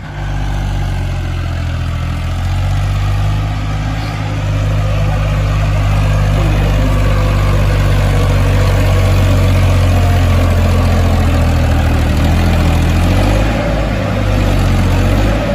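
Massey Ferguson 1035 three-cylinder diesel tractor engine running under heavy load, hauling a trolley full of soil out of a mine. The steady low engine note grows a little louder about four seconds in and eases briefly near the end.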